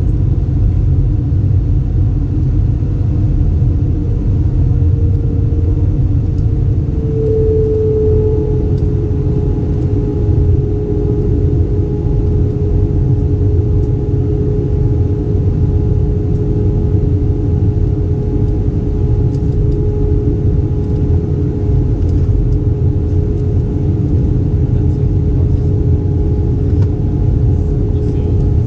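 Steady deep rumble of an Airbus A320's engines and airflow heard inside the cabin. A steady hum tone joins about seven seconds in, dips slightly in pitch, then holds.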